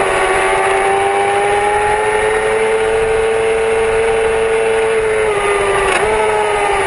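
Yamaha R6's inline-four engine running hard under acceleration, its pitch climbing slowly, then dropping in two quick steps near the end as it is shifted. A steady rush of wind and rain spray runs underneath.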